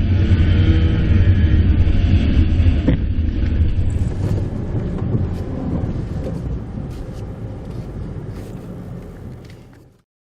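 Engine and road noise of a Mitsubishi Pajero Mini kei SUV heard inside the cabin, a steady low hum that gradually dies away over the second half, with scattered clicks, before cutting to silence about ten seconds in.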